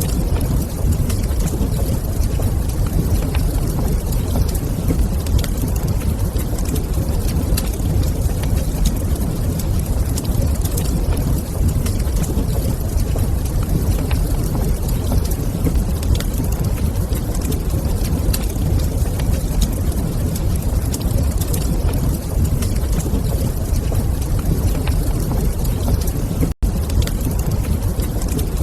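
Steady low rumble of a log fire burning in a fireplace, with faint scattered crackles. The sound drops out for a split second near the end.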